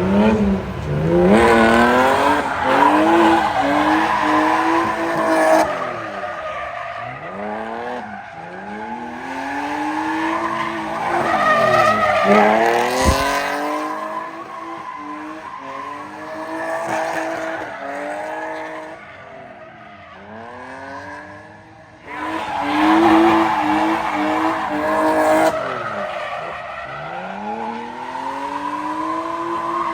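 Drift car engines revving up and down over and over, with noisy, louder stretches of tyre-sliding sound a couple of seconds in and again past twenty seconds.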